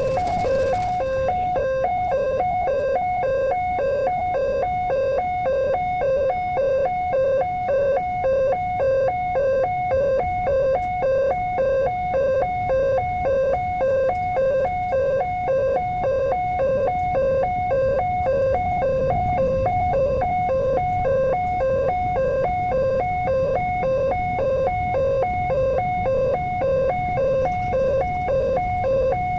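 Railway level crossing warning alarm: an electronic two-note chime pulsing on and off at a steady, rapid rate, the signal that a train is approaching and the barriers are down. A low rumble runs beneath it and swells briefly past the middle.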